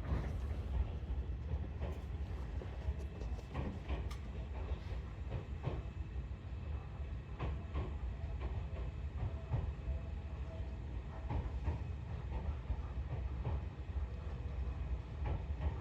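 Inside an electric commuter train slowing towards a station stop: a steady low running rumble, with scattered clicks and knocks from the wheels over rail joints and points.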